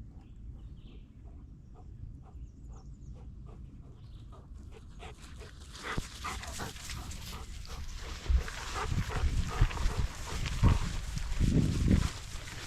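A dog breathing in quick, regular strokes close to the microphone, louder and busier from about six seconds in, with several low thumps toward the end.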